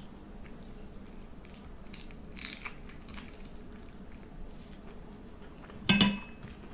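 A person biting and chewing crunchy food, with crisp crackling crunches about two to three seconds in, then a brief louder sound about six seconds in.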